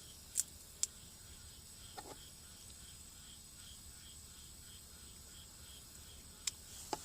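Insects chirping in a steady pulsing rhythm of about three pulses a second, over a faint high continuous buzz. A few short sharp clicks sound twice near the start and twice near the end.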